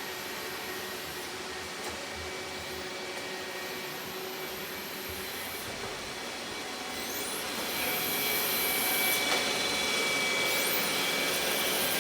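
Robot vacuum cleaner running, a steady motor whir with a faint whine, getting louder about two-thirds of the way in.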